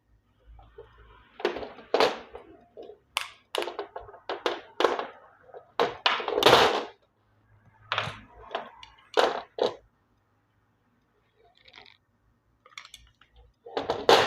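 Handling knocks, thunks and clicks as a washing machine's control board and its door-lock switch are moved and worked on by hand, a series of uneven taps and knocks rather than a steady sound.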